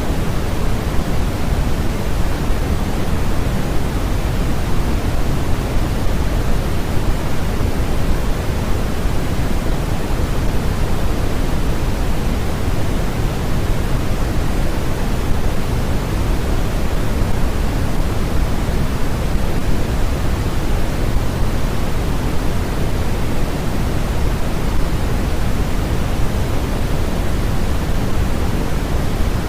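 Steady, unchanging synthetic noise of the kind played as white noise for sleep, fuller in the bass than in the treble.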